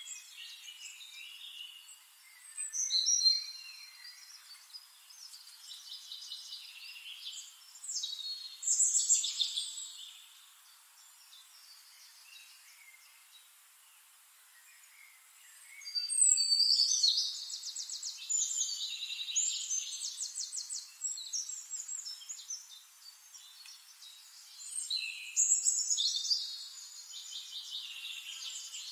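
Wild birds chirping and trilling in several bouts, the busiest stretch a few seconds past the middle, with quieter stretches of faint hiss between them.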